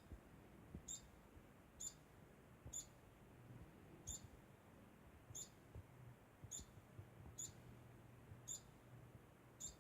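Degu making short, high-pitched squeaks over and over, about one a second, faint and evenly spaced.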